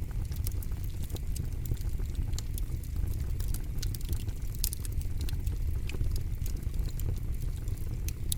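Campfire burning, with frequent irregular crackles and sharp pops over a steady low rumble of flames.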